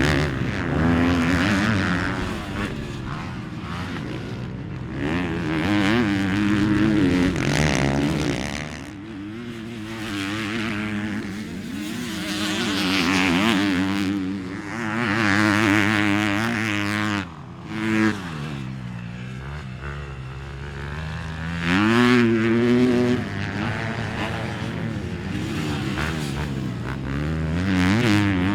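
Motocross dirt bike engines revving up and down as they ride the track, pitch climbing and dropping with throttle and gear changes, getting louder as bikes pass close several times.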